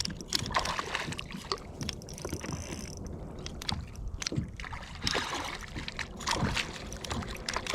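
Water splashing and lapping around a kayak, with scattered light knocks and clicks on and around the boat.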